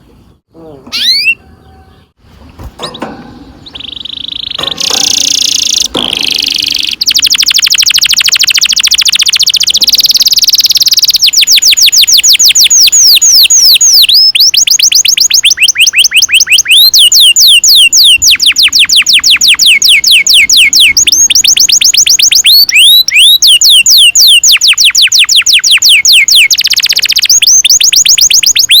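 Domestic canary singing loudly. A few short rising chirps and a held whistle give way, about seven seconds in, to long, very fast rolling trills of repeated sweeping notes, broken by brief pauses.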